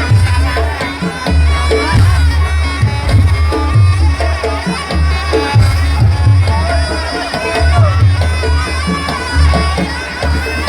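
Jaranan Buto accompaniment music: a slompret, a double-reed shawm, plays a winding melody over heavy, regular low drum and gong strokes.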